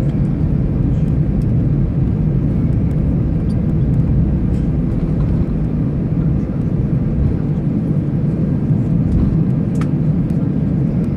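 Steady low rumble inside an Airbus A319 cabin on the ground after landing, with a few faint clicks.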